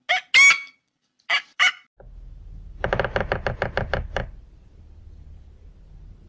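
Domestic fowl giving three short squawking calls, then, after a cut, a quick run of about ten knocks at roughly eight a second over a low steady hum.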